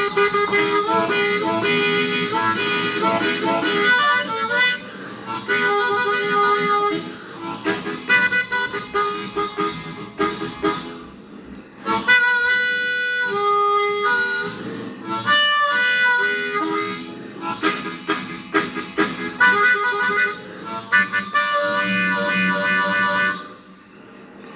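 Blues harmonica playing an instrumental solo of the melody, held notes and chords with short breaks between phrases.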